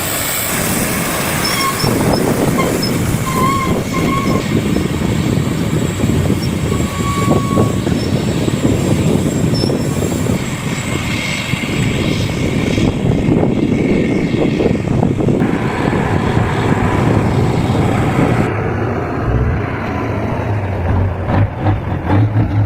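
Fully loaded logging truck working down a steep grade: a continuous loud, noisy rumble with a few brief high-pitched squeals in the first half.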